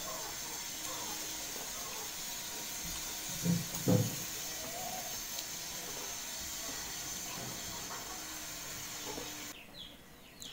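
A person eating a meal of rice and dal, with faint chewing and mouth sounds over a steady hiss. There are two short, louder mouth sounds, about three and a half and four seconds in.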